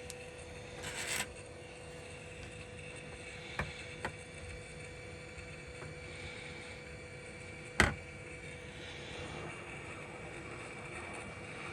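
Steady fan-like whooshing hiss with a faint steady hum, broken by a short hiss about a second in and a few light clicks, the sharpest near eight seconds in.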